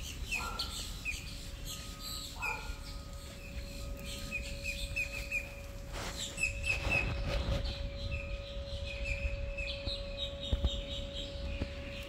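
Several birds chirping and whistling in the trees, with many short high chirps and some brief level whistled notes. A steady faint hum runs underneath, and there is a short rustle about six to seven seconds in.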